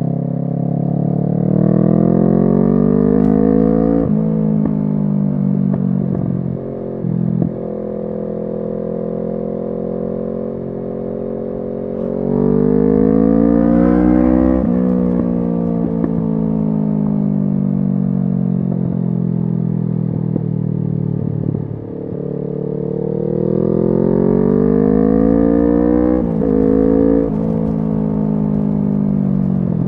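Kawasaki Z650 parallel-twin through an SC Project exhaust, accelerating three times. The revs climb, break at each gear change, then wind down slowly as the bike slows.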